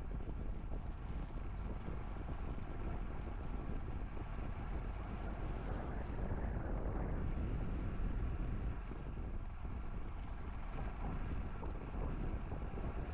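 Wind buffeting the microphone on a moving bicycle: a steady low rumble.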